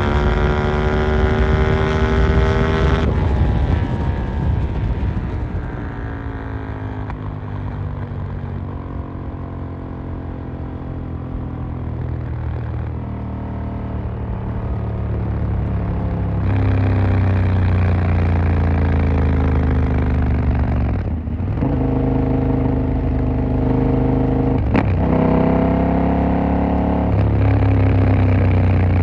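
KTM 890 Duke R's parallel-twin engine on the move: held at high revs, then the throttle closes and the pitch falls away for several seconds. After a lull it pulls hard again, with brief dips as it changes gear about two-thirds of the way through and again near the end.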